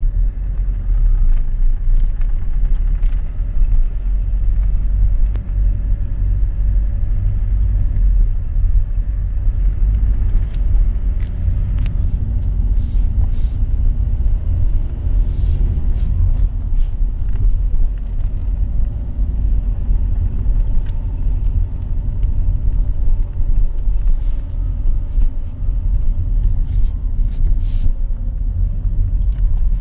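Alfa Romeo 159 1.9 16v with a steady low rumble and sharp knocks at irregular intervals, the left-side knocking noise that fades under acceleration and goes away with the gearbox in neutral.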